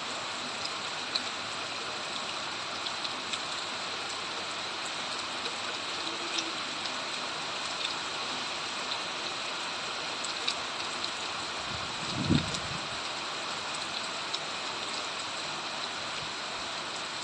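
Steady rain falling, with scattered drops pattering close by and a stream running beneath it. A single short low thump about two-thirds of the way through.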